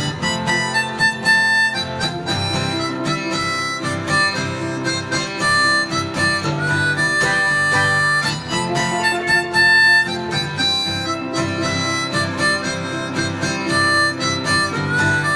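Instrumental break: a harmonica plays a solo line of held and moving notes over steadily strummed acoustic guitar.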